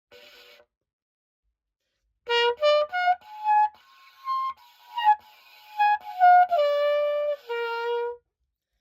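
Cecilio pocket cornet played in a short phrase of separate notes. It climbs quickly to a held high note, then steps back down and ends on two longer held notes.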